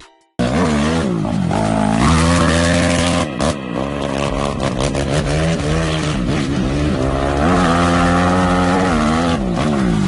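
Motorcycle engine revving hard under acceleration, the pitch climbing and then dropping back several times as it shifts gears. It starts abruptly about half a second in.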